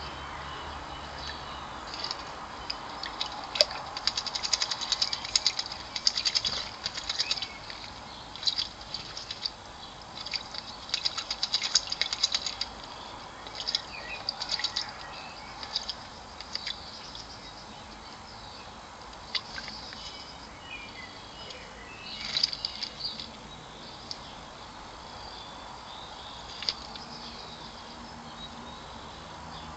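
Blackbird bathing in a garden bird bath: irregular bursts of splashing and wing-fluttering in the water, busiest in the first half and again briefly later on.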